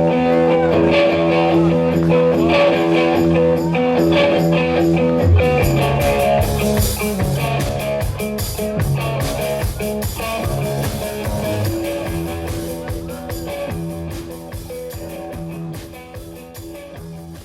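Band playing blues-rock: a held electric guitar chord rings, then drums come in with a steady beat about five seconds in. The music fades out near the end.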